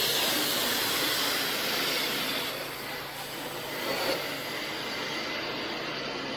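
Steady rushing hiss of a water jet from a hose wand spraying into a gutter and down its downspout to flush out debris and check for flow.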